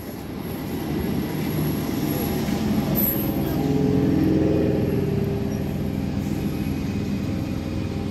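Electric train running: a steady low rumble, with a humming tone that rises in pitch about halfway through and then holds.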